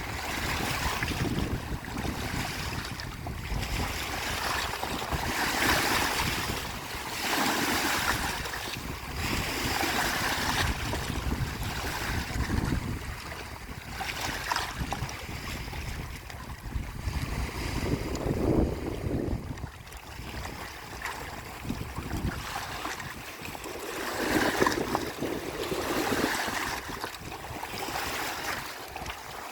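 Lake waves washing onto the shore in repeated surges that swell and fade every few seconds, with wind rumbling on the microphone.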